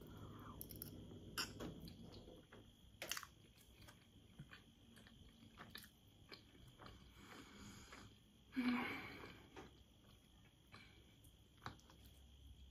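Faint close-up chewing of manti (steamed meat dumplings) with sour cream. A few sharp clicks come in the first few seconds, and one louder, short noisy sound comes about two-thirds of the way through.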